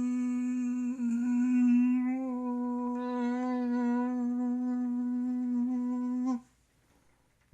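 One long unaccompanied note sung or hummed by a solo voice, held at a steady pitch with a slight waver about two seconds in. It is the closing note of the song and stops about six seconds in.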